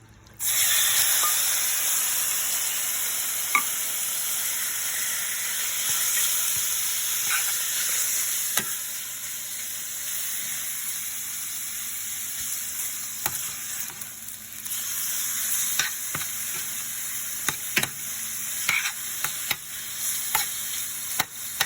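Chicken thighs sizzling as they brown in hot oil in a frying pan, the sizzle starting suddenly about half a second in as the meat goes in, with scattered sharp ticks and pops over it.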